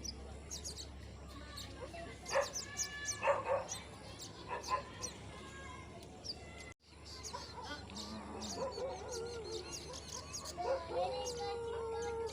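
Farmyard poultry calling in loud short outbursts, over a steady scatter of small birds chirping. The sound drops out for an instant about halfway through, then a longer, wavering call runs on toward the end.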